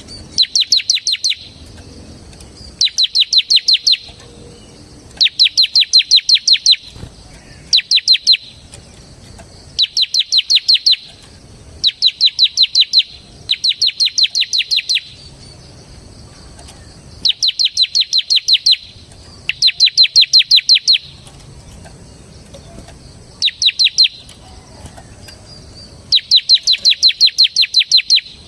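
Bar-winged prinia (ciblek semi) singing its rapid 'ngebren' song: about a dozen loud bursts of fast, evenly repeated high chips, each burst lasting about a second, with short pauses between them.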